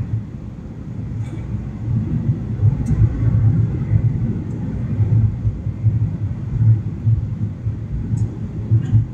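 Deep, uneven rumble of a Batik Air airliner landing, rising and falling in loudness, with a few faint clicks.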